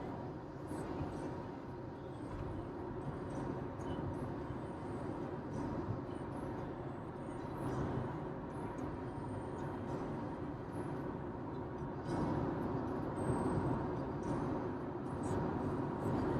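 Steady road and engine noise inside a moving car's cabin, a low even rumble with no change in pace.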